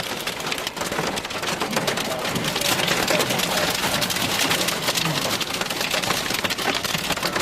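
Hail and heavy rain pounding a vehicle's roof and windows, a loud, dense clatter of countless stones striking at once, heard from inside the vehicle.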